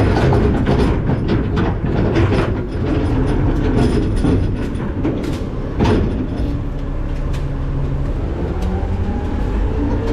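McNeilus ZR garbage truck's hopper rattling and clanking, with scattered knocks and a sharper knock about six seconds in. Near the end a steady whine comes in, rising slightly in pitch.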